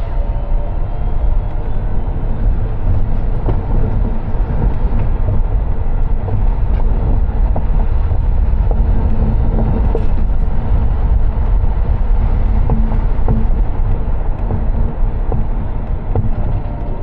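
Car driving along city streets: a steady, loud low rumble of road and engine noise, with scattered light clicks and knocks.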